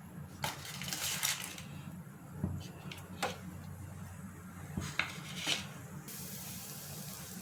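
A utensil clinking and scraping against a cooking pan in a series of sharp knocks as butter goes in; a steady hiss comes in about six seconds in.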